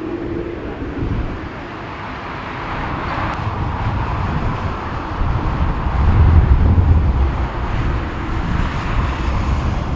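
Jet airliner engine noise rising to its loudest a little past the middle, with gusty crosswind buffeting the microphone.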